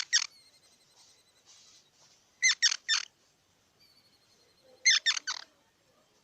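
Squirrel giving sharp, high chirping calls in three quick bursts of two to four chirps each, about two and a half seconds apart.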